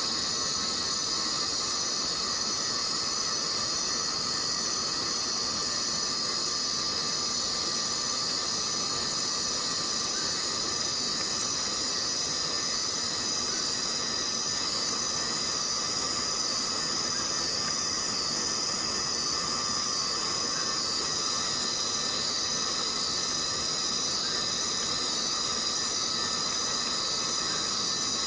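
Tropical rainforest rain: a steady patter of falling rain under an unbroken chorus of insects, their shrill tones layered at several pitches.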